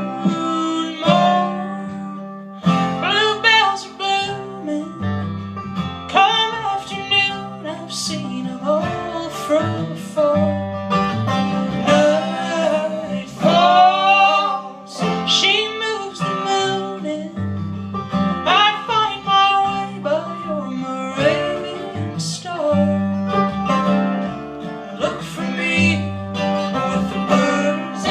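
Live acoustic folk band playing a song: plucked acoustic guitar and a singing voice over a low bass line that moves in steps.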